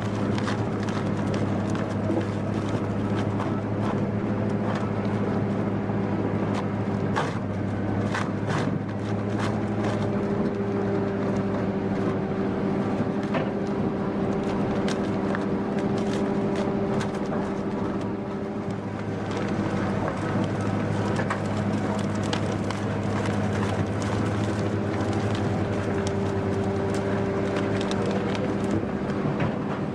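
Wood chipper's engine running steadily under load, with scattered sharp cracks and knocks as wood is fed through and chipped, most frequent from about 7 to 11 seconds in.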